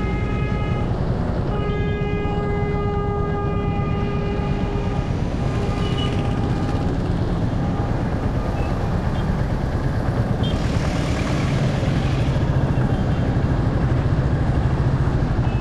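Motorcycle engine running steadily while riding in traffic, with a vehicle horn sounding twice near the start, the second blast held for about three seconds.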